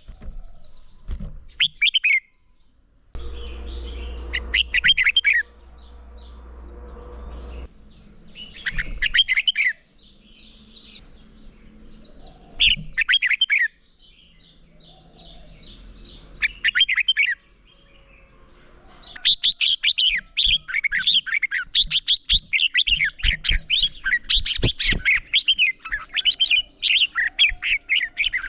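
Red-whiskered bulbuls singing: short warbled phrases every few seconds, then, from about two-thirds of the way in, a dense, nearly unbroken run of rapid song, the heated competitive singing that keepers call "hót đấu".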